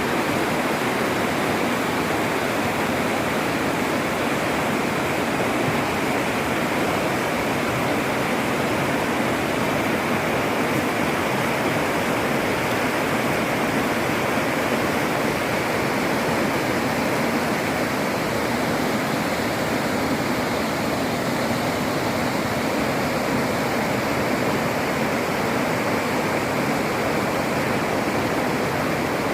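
The Arda river's water rushing in a steady, unbroken flow.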